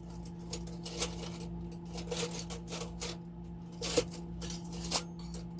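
Metal kitchen utensils clinking and rattling as someone rummages through a cluttered drawer for a pair of tongs: a string of light clicks and clanks, the loudest about four and five seconds in, over a steady low hum.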